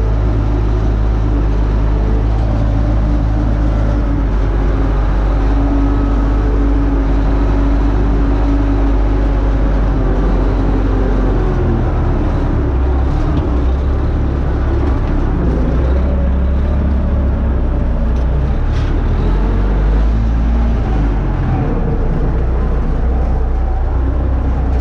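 UTB Universal U650 tractor's four-cylinder diesel engine running steadily under load while pulling a disc harrow. The low drone changes in pitch about halfway through.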